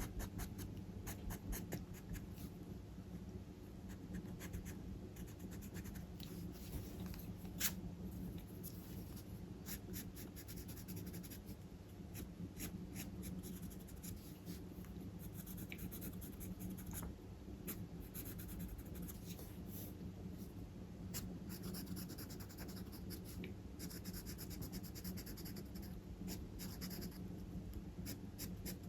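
Charcoal pencil scratching on drawing paper in many short strokes, with a stretch of denser, hissier strokes near the end. A steady low hum runs underneath.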